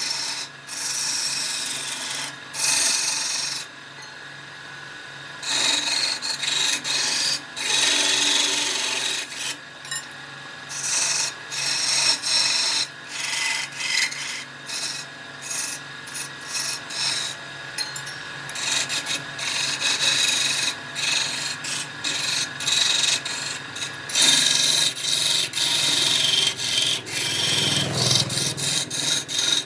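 Wood spinning on a wood lathe being worked with a hand-held turning tool, giving irregular scraping strokes of varying length over the lathe motor's faint steady hum.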